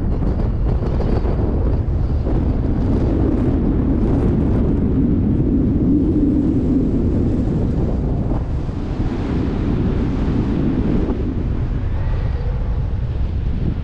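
Wind buffeting the camera microphone: a steady, loud, low rumble.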